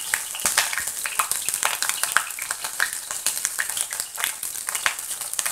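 Finely chopped garlic and grated ginger sizzling in hot oil in a kadhai, a dense run of small pops and crackles.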